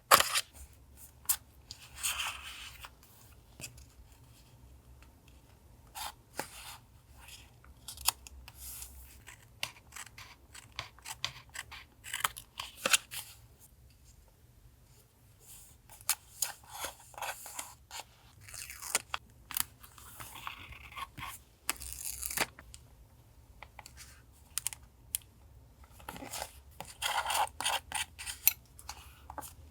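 Paper collage crafting: scattered scissor snips, paper tearing and rustling in short irregular bursts with pauses between. A faint steady refrigerator hum sits underneath.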